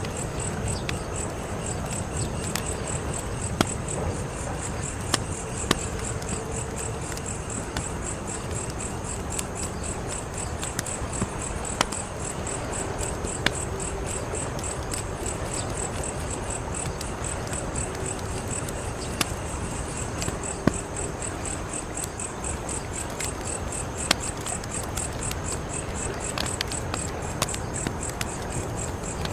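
Wood fire crackling, with scattered sharp pops over a low, steady rush of burning. Crickets chirp throughout in an even, pulsing trill high above it.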